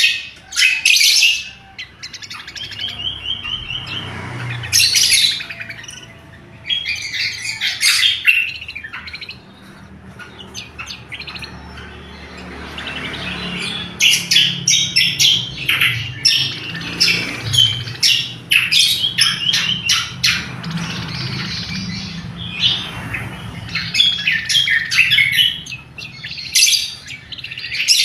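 Greater green leafbird (cucak kombo) singing actively: loud, sharp chirps and rapid trilled phrases, repeated throughout with short gaps. A faint low hum runs underneath.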